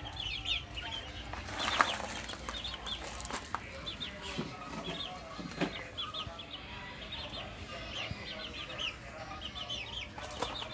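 Quails chirping in many short, high peeps repeated throughout. There is a brief rustle of movement about two seconds in.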